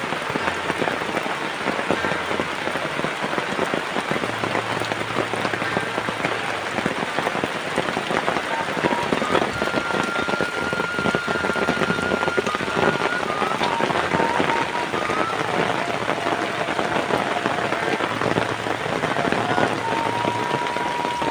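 Heavy rain falling steadily, a dense patter of drops striking surfaces. A faint thin tone comes and goes in the background.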